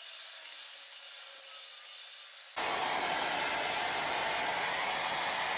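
Shark hair dryer blowing a steady hiss of air. About two and a half seconds in, the sound suddenly becomes fuller and slightly louder.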